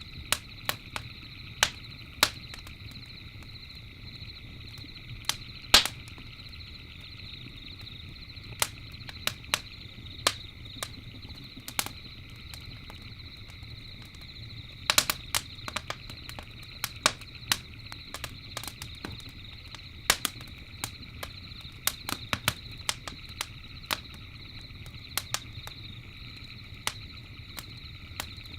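Wood campfire crackling, with irregular sharp pops, the loudest about six seconds in and a quick cluster about halfway through. Underneath runs a steady night chorus of crickets and a low rumble.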